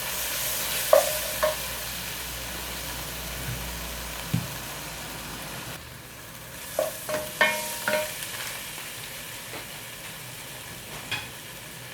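Onions, tomatoes and spices sizzling in hot oil in a pan as they are stirred, with a few short clinks of the utensil against the pan about a second in, twice more around seven to eight seconds, and once near the end.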